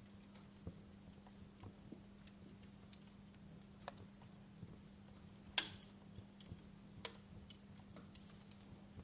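Wood fire crackling in a fireplace: irregular small pops and snaps, with one louder pop a little past halfway, over a faint steady low hum.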